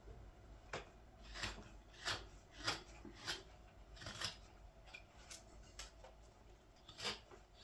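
A large scorp slicing into green wood to hollow out a ladle's bowl, in the early roughing-out stage before any depth is established. There are about nine short cutting strokes, roughly one every half second to a second, with a brief pause near the end.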